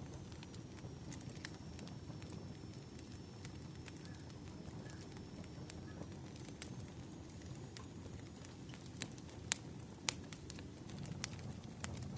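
Firewood burning with irregular sharp crackles and pops over a low steady rumble.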